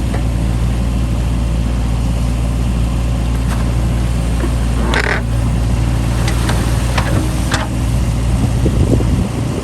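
Mini excavator's diesel engine running steadily with a low drone, with a few short knocks over it while the machine works. The engine drone drops off near the end.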